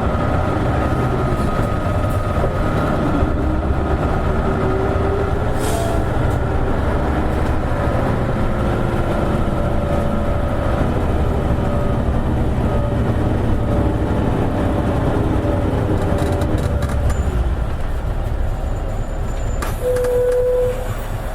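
Isuzu KL-LV280N1 city bus heard from inside, its diesel engine and drivetrain running with shifting pitch as it drives. Short hisses of air about six seconds in and again near the end, as the bus slows.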